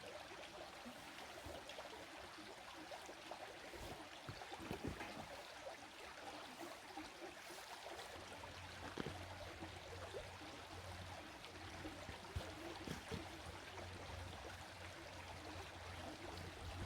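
Faint steady rushing noise with scattered soft clicks and knocks; a low steady hum joins about halfway through.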